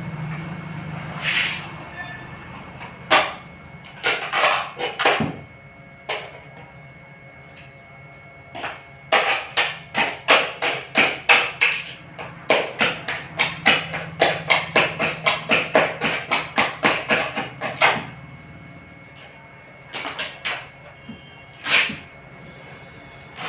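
A hand tool working on a loudspeaker: a few separate sharp strokes, then a fast, regular run of strokes, about three a second, for roughly nine seconds, then a few more strokes. A steady low hum runs underneath.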